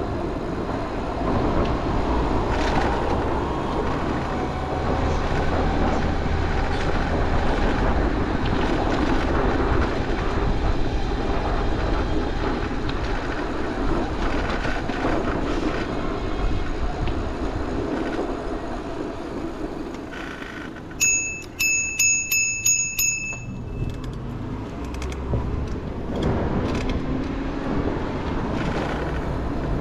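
Steady city street traffic noise heard from a moving bicycle. About two-thirds through, a bicycle bell is rung rapidly, about six rings in two seconds.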